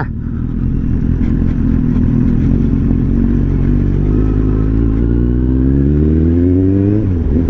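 Superbike engine accelerating: its pitch climbs steadily for about three seconds, then drops sharply near the end as it shifts up a gear.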